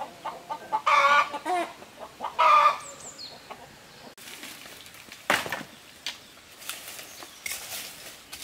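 Chickens calling: two loud, wavering clucking squawks about one and two and a half seconds in, followed by fainter scattered knocks and clicks.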